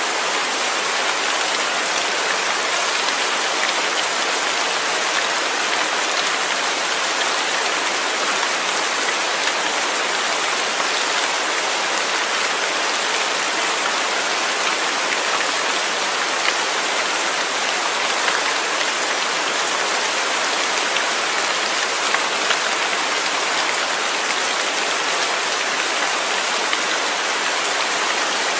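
Steady rain falling, a dense even hiss of drops with faint scattered patters of individual drops striking a surface.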